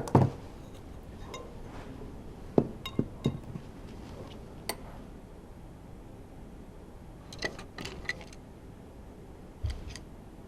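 Metal tools and engine parts clinking and knocking during the hand disassembly of a Honda V10 Formula One engine: irregular sharp knocks and short ringing clinks. The loudest knocks come right at the start and about two and a half seconds in, with a small cluster of clinks around seven to eight seconds.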